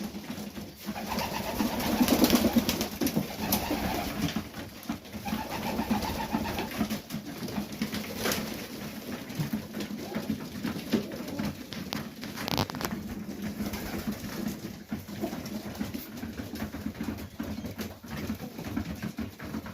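Highflyer pigeons cooing in a loft, several birds overlapping in a steady low warble, with a few sharp taps.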